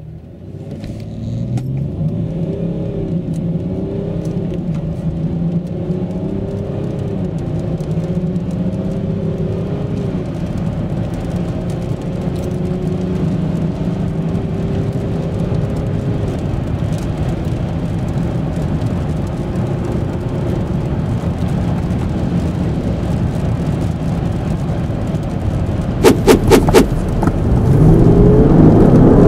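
A 3.0-litre turbodiesel V6 in a Range Rover Sport launches hard from standstill under full throttle, heard from inside the cabin. Its pitch rises and drops back several times as the 8-speed automatic shifts up, then climbs slowly in a high gear. A few sharp clicks come near the end.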